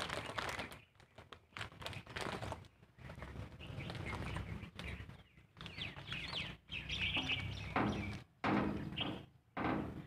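Small birds chirping in short, high calls, thickest around six to eight seconds in, over low rustling.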